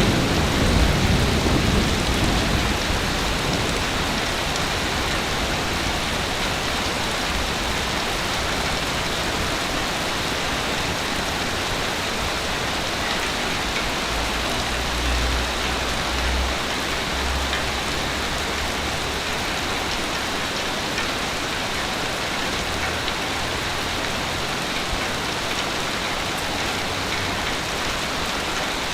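Ocean surf on a beach: a wave's low rush fades over the first few seconds into a steady hiss of washing water, with further low rumbles of breaking waves about halfway through and again later.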